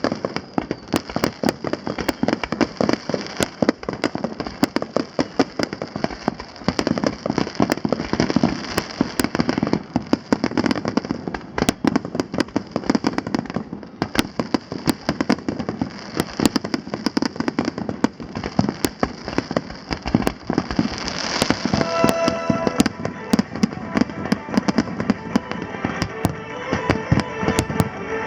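Fireworks display going off in a dense barrage: rapid, overlapping bangs and crackling pops with hardly a pause. Toward the end, music with steady held notes comes in under the explosions.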